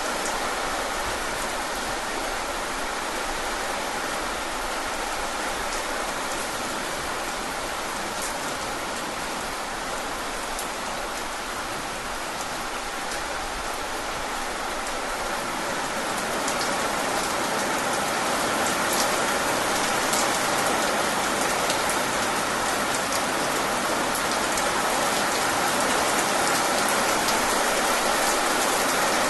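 Steady rain falling, with fine drop patter, getting slightly louder about halfway through.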